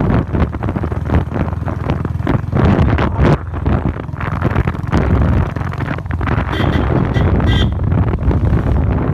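Royal Enfield Bullet's single-cylinder engine running while the motorcycle rides along, with heavy wind buffeting on the microphone. A few short high beeps sound between about six and a half and eight seconds in.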